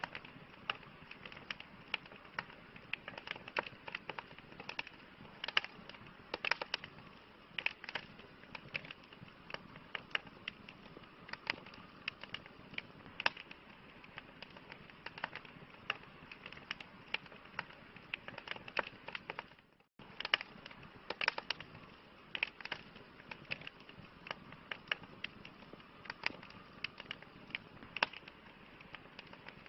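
Wood fire crackling: irregular sharp pops and snaps over a soft steady hiss, cutting out for a moment about two-thirds of the way through.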